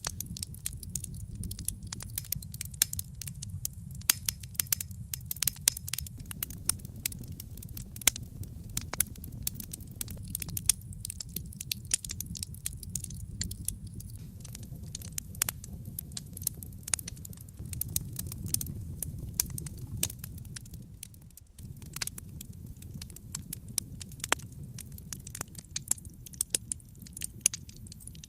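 Wood fire burning in a fireplace, crackling and popping in quick irregular snaps over a steady low rumble of flame.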